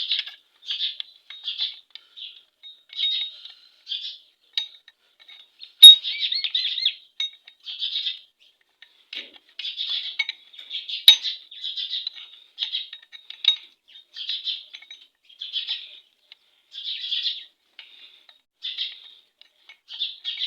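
A small bird chirping over and over, short chirps about once a second. Two sharp metal clinks stand out, about six seconds in and about eleven seconds in.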